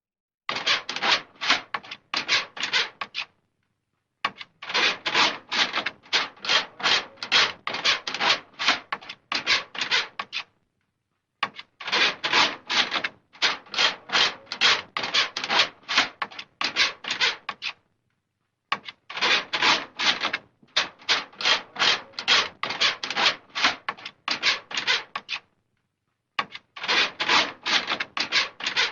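Repeated rhythmic scraping strokes, about two to three a second, in five runs of a few seconds each with short pauses between them.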